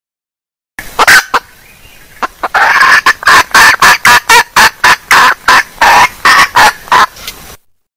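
Female junglefowl clucking: a couple of sharp notes about a second in, then a fast, even run of clucks at about three a second that stops shortly before the end. It is a lure call used to draw in wild junglefowl.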